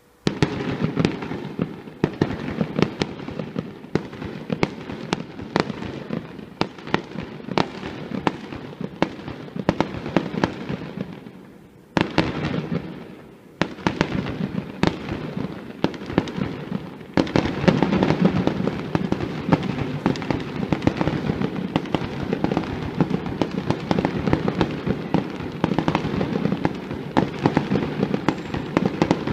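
Aerial fireworks bursting, a dense stream of sharp bangs and crackles that starts suddenly. It dips briefly about twelve seconds in, then picks up again, heaviest and most continuous in the second half.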